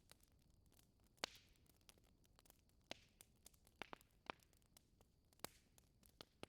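Wood fire in a fireplace crackling faintly, with a handful of sharp, irregular pops and snaps, the loudest about a second in, over a soft hiss.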